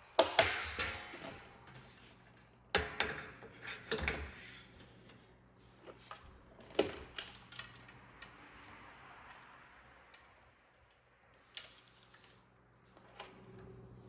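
A series of irregular knocks and clicks of hard objects being handled and set down, the loudest just after the start, over a faint steady hum.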